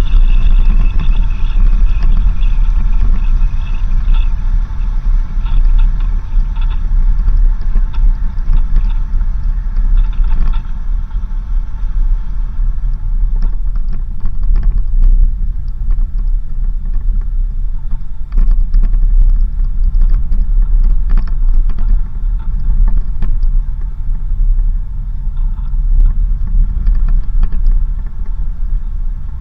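Vehicle driving on a dirt road: a loud, steady low rumble of engine and tyres, with scattered small knocks and rattles over the rough surface.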